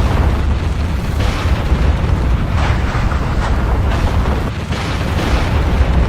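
Volcanic eruption: a loud, deep continuous rumble with repeated sharper blasts about once a second.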